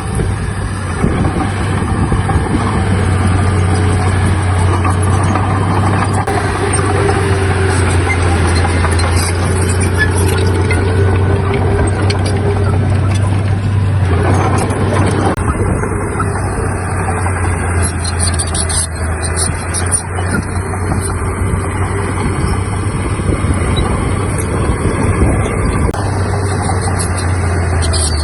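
Heavy diesel engine of earthmoving machinery running steadily under work, a constant low drone.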